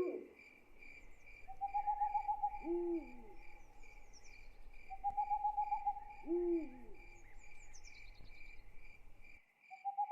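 Night ambience: crickets chirping steadily in an even pulse, an owl hooting twice, about three and six seconds in, and a low buzzing trill sounding twice just before each hoot.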